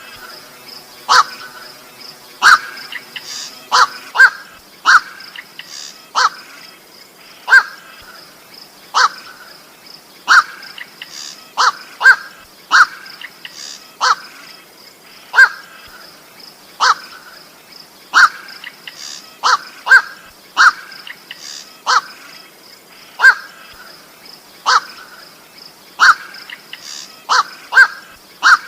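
A koak (goak) bird calling over and over, short harsh calls about once a second, over a steady high whine.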